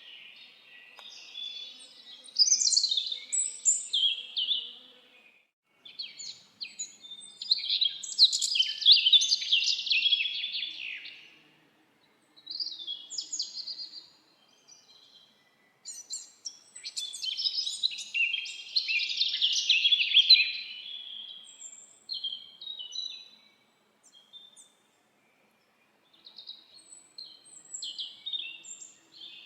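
Songbirds singing: a run of rapid, twittering song phrases, each lasting a few seconds, with short pauses between them.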